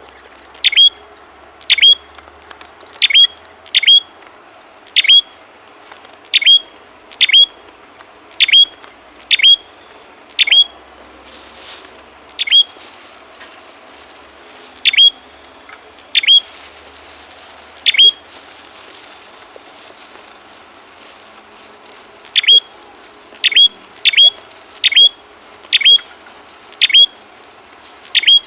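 Bird-lure recording of the prenjak kepala merah, a small songbird. It gives short, sharp, high chirps, one at a time, about once a second, with a pause of about four seconds past the middle.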